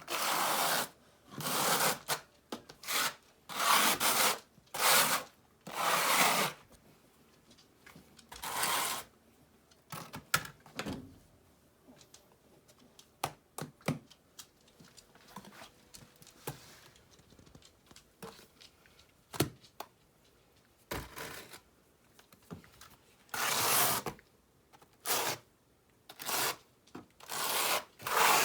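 A steel trowel scraping wet mortar in short, gritty strokes while river rock is set for a hearth base. About ten quick strokes come at the start, then a quieter stretch with a few scattered scrapes and clicks, then another run of strokes near the end.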